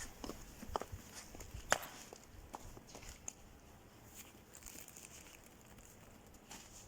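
Faint footsteps and light knocks, a few sharper clicks in the first half, then thinning out.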